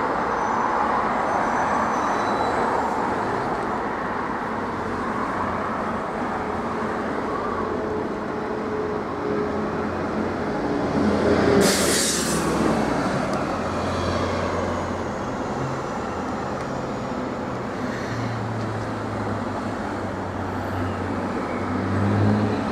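Boeing 737-800 jet engines (CFM56-7B turbofans) running with a steady rushing roar, with a brief louder rush about halfway through.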